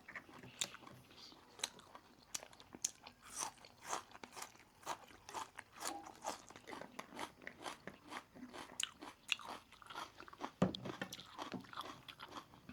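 Close-up eating: crisp roast chicken being bitten into and chewed, with irregular crunching and wet chewing, and one louder crunch near the end.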